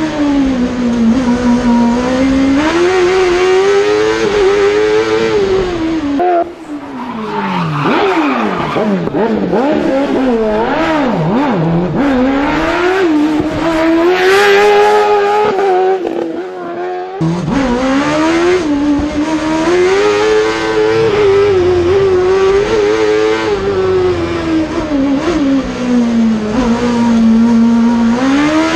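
Suzuki-engined Peugeot 106 slalom car driven hard, its engine note climbing and falling over and over through gear changes and lifts of the throttle. For about ten seconds in the middle the deep part of the sound drops away, leaving a thinner note that rises and falls faster.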